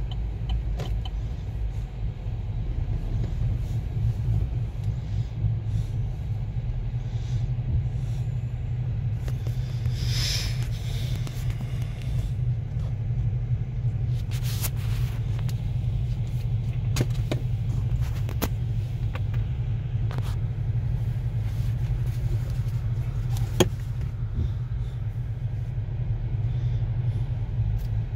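Car engine idling and crawling, a steady low rumble heard from inside the cabin, with a few faint clicks.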